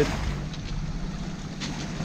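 Wind rushing over the microphone on a catamaran at sea, over a steady low hum.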